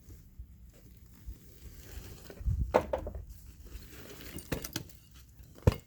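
Several sharp knocks and light clatters, with a brief low rumble about two and a half seconds in and the loudest single knock near the end.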